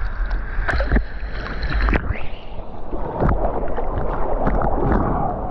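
Water sloshing and splashing around a kayak being paddled in toward the beach, with scattered sharp splashes and a steady low rumble of wind on the microphone.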